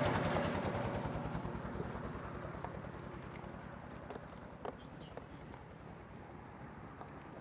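Car driving noise heard from inside: a low rumble with a fast pulsing that fades steadily as the car slows, and a few light clicks.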